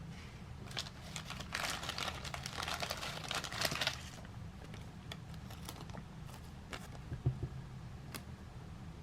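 Trading card pack wrapper and cards being handled: a crinkling rustle for a couple of seconds, then scattered light clicks and taps as the cards are handled.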